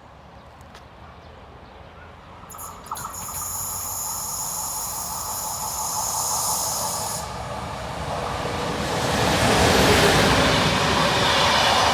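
An electric locomotive-hauled passenger train approaching on the line: a high hiss starts a couple of seconds in and runs for about four seconds, then the rumble of the train grows steadily louder as it draws near.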